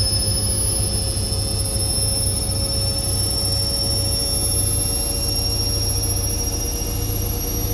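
Indesit IWC6165 washing machine spinning at speed: a low drum rumble under a high motor whine that climbs slowly in pitch as the spin speeds up.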